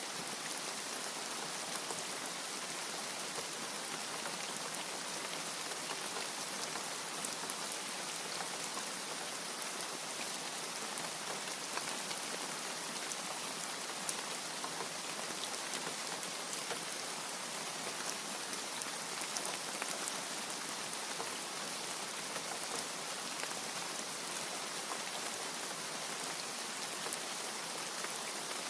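Steady rain falling: a dense, even hiss with the fine ticking of individual drops.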